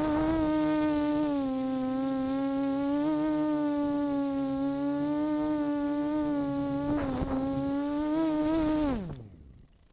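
FPV multirotor drone's electric motors and propellers buzzing steadily, the pitch rising and falling slightly with throttle. Near the end the motors spool down in a falling whine and stop.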